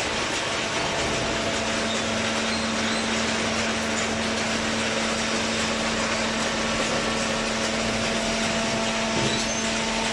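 Hydraulic cardboard baler running: the machine's motor and hydraulic pump make a steady whirring noise, with a steady hum joining about a second in.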